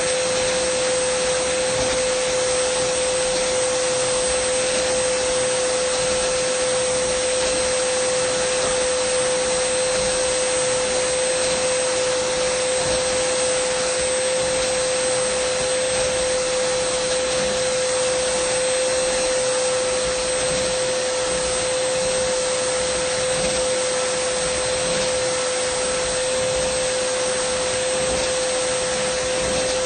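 Dyson vacuum cleaner running steadily: an even rush of air with a constant hum and a high whine over it.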